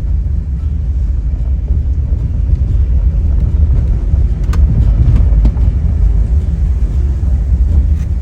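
Car driving, heard as a loud, steady low rumble, with a couple of faint clicks about halfway through.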